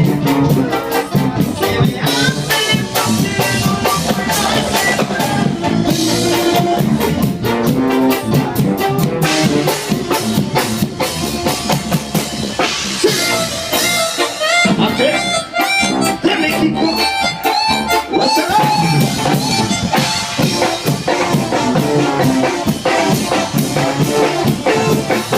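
Regional Mexican cumbia band playing an instrumental passage: a reedy accordion lead over drum kit and bass, with no singing.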